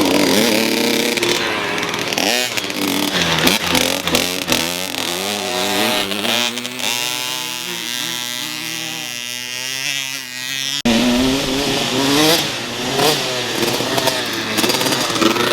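Motocross dirt bike engines running and revving, their pitch rising and falling. About halfway through a single engine holds a steadier note, then the sound changes abruptly about eleven seconds in.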